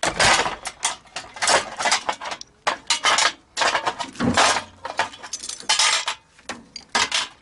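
Metal parts and tools clattering and clinking as a microwave's sheet-metal casing and parts are handled during disassembly: an irregular run of sharp clanks and short scrapes.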